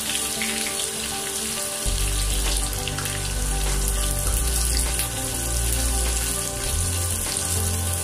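Chopped shallots frying in hot oil with mustard seeds in a kadai: a steady sizzle as they are stirred.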